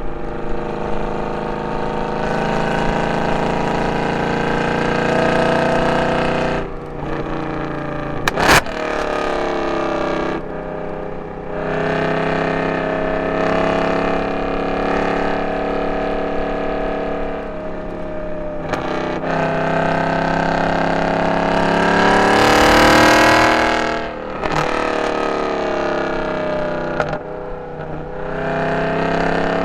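Mercedes C63 AMG's M156 6.2-litre V8, running through long-tube headers, an X-pipe and no catalytic converters, driven hard on track. The revs climb and fall repeatedly, with brief dips between pulls, and there is a single sharp crack about eight and a half seconds in. The loudest, highest-revving pull comes a little past twenty seconds in.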